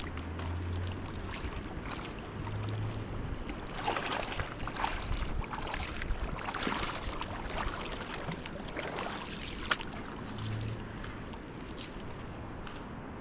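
Rushing water and wind noise, a steady roar with louder surges about four to nine seconds in.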